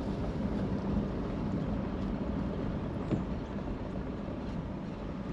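Steady low rumble of a running vehicle, with a faint constant hum.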